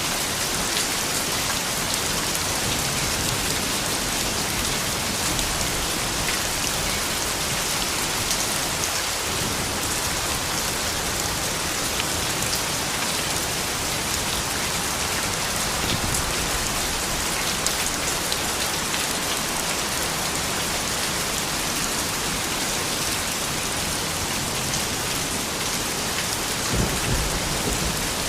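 Steady rain falling, with a dense hiss and many separate drops ticking. A brief low rumble comes in near the end.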